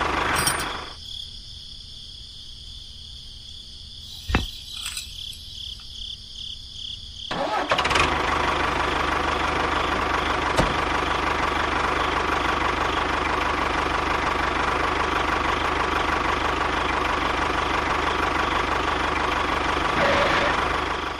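Steady engine-like running sound of a model tractor hauling a loaded trailer. It is thinner and quieter for the first few seconds, with a sharp click about four seconds in, then picks up about seven seconds in and runs on steadily.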